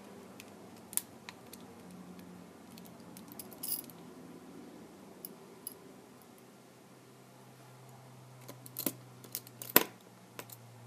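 Scattered small clicks and light clinks of repair tools and small parts being handled on the bench, with a brief rattling clink about four seconds in and a quick run of louder clicks near the end.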